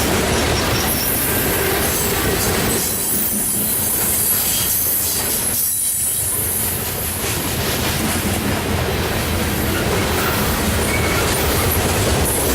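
Loaded coal train's steel-wheeled hopper cars rolling past, with a steady rumble of wheels on rail and a continuous high-pitched squeal from the wheels.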